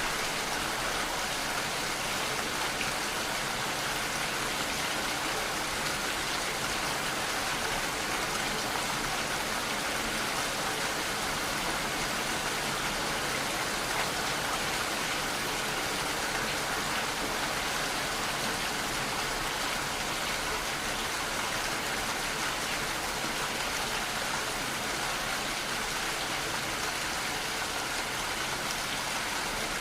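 Steady rainfall: an even hiss of rain falling on surfaces, with no thunder.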